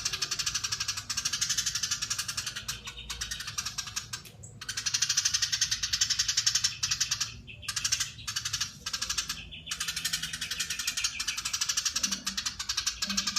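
Eurasian tree sparrow giving its long, fast chattering call: a dense run of rapid, even high notes, broken by three short pauses.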